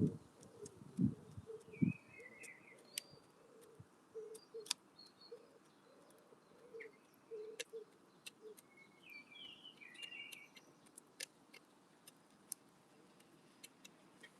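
Small birds chirping in short phrases, twice, over scattered sharp ticks and clicks, with a few dull knocks in the first two seconds.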